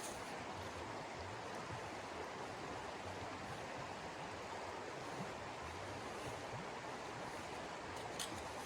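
Steady, even rushing noise with no pitch or rhythm, and a faint click near the end.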